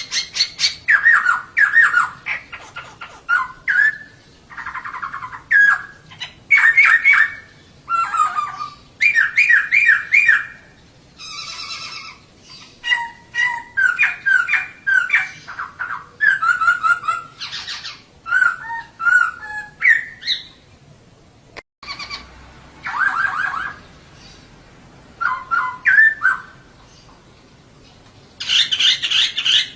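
Female poksay (laughingthrush) singing: runs of quick chattering and whistled notes in short phrases, with a few brief pauses, the longest about two-thirds of the way through. This is the female's song used to draw a male poksay into singing.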